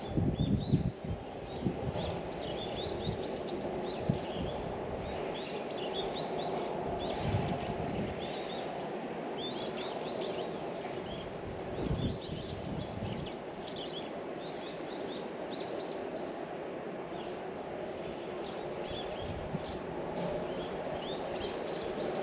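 Small birds chirping and twittering many times over a steady low outdoor background hum, with a few low thumps, the strongest within the first second.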